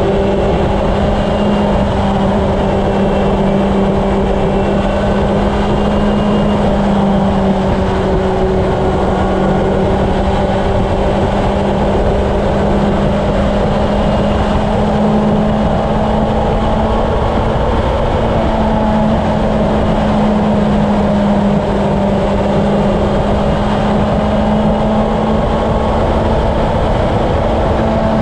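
Honda CB750's inline-four engine running at a steady highway cruise, a constant hum, with heavy wind rush buffeting the helmet or bike-mounted camera microphone.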